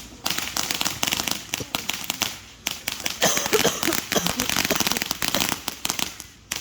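Consumer fireworks crackling: a dense, rapid run of sharp pops, with a short break about two and a half seconds in.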